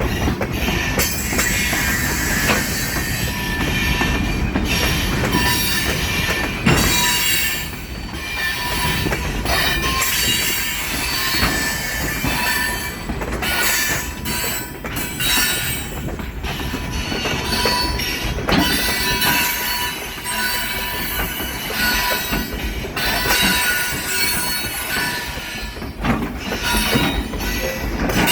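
A train rolling past, its wheels squealing on the rails in recurring high tones, with scattered clanks and clicks from the cars.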